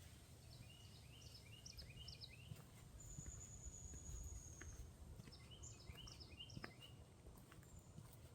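Faint songbird calls outdoors: two runs of quick, high chirps separated by a long, thin, high whistle, over a low rumble of wind or ambient background.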